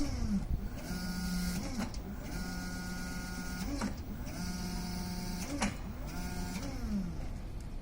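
Electric forklift motor whining in repeated runs, about four times: the pitch rises, holds steady, then falls away. A sharp click comes between some runs.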